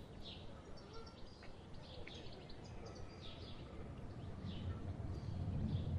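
A small bird calling with short, high, falling chirps, about one a second, over a low rumble that grows louder about four and a half seconds in.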